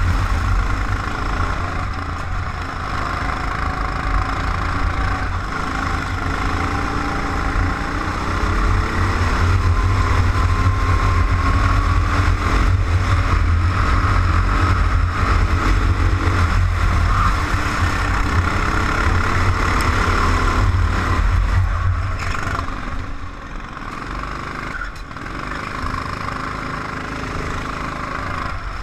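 A vehicle engine heard onboard during a lap, running loud with a deep rumble. Its pitch rises under acceleration in the middle of the stretch and the engine eases off about 22 seconds in.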